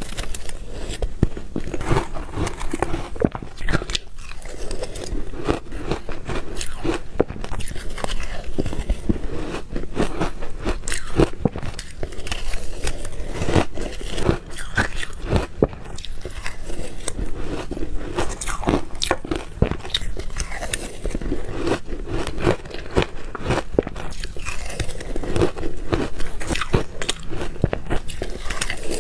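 A person biting and chewing ice, with dense, irregular crunching and cracking throughout.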